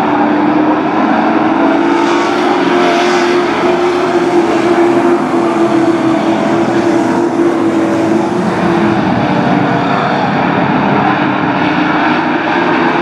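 Race truck engines running at high revs: a loud, steady drone with no break.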